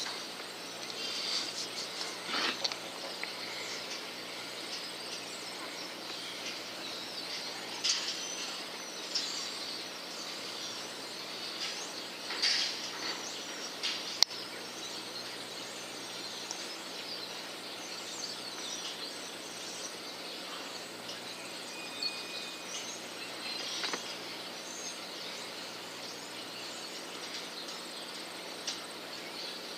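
Starlings and sparrows chirping and calling on and off over a steady outdoor background with insects. One sharp click sounds about halfway through.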